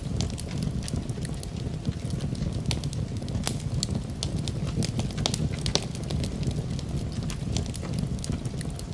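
Wood fire in a fireplace crackling and popping with irregular sharp snaps, over a steady low rumble.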